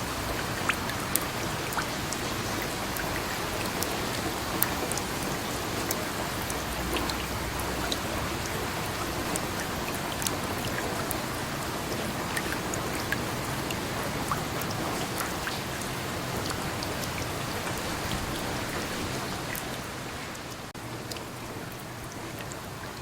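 Steady rain falling, a continuous hiss with many distinct drops tapping on a surface; it eases off a little near the end.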